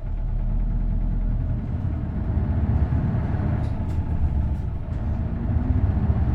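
Isuzu Erga city bus's V8 diesel engine running under way, heard from inside the cabin as a steady low drone that grows a little louder about two seconds in.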